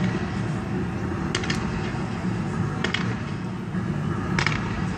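Fireworks going off: a sharp bang about every second and a half, one of them a quick double, over a steady low rumbling noise.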